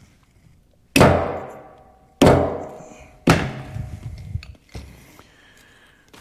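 Three heavy knocks on metal about a second apart, each ringing out briefly, then a few lighter knocks, as parts of a Lucas CAV DPA diesel injection pump are struck during disassembly.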